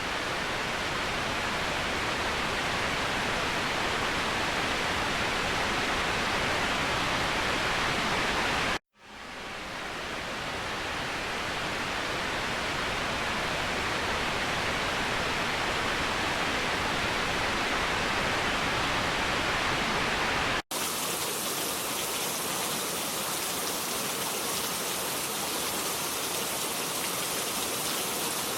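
Steady rush of falling water from a waterfall. About nine seconds in it drops out for a moment and fades back up; about two-thirds of the way through it cuts abruptly to a thinner, hissier rush of water with little low rumble.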